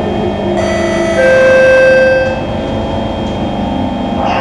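Singapore MRT train running, its electric traction motors giving a steady whine of several tones. About a second in, a louder held tone sounds for about a second.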